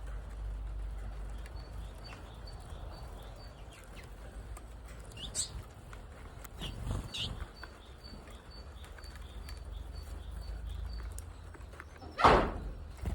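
Twites chirping now and then, with a faint high call note repeating about three times a second, over a low steady rumble. About a second before the end comes a single loud, short rustle or thump.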